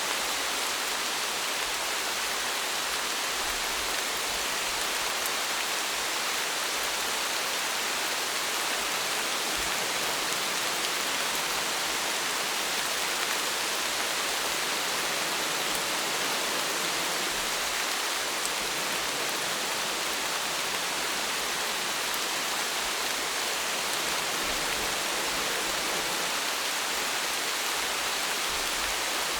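Steady rainfall: an even hiss of many drops falling, with no change in strength.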